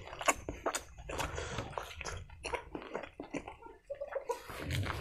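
Close-up mouth sounds of a person eating pork curry and rice by hand: wet chewing, lip smacks and irregular sharp clicks.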